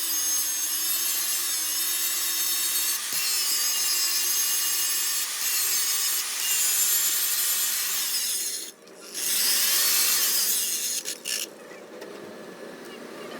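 A power tool working metal, a harsh, high-pitched rasping noise with a steady whine in it. It breaks off briefly about nine seconds in, comes back, then drops to a much quieter level near the end.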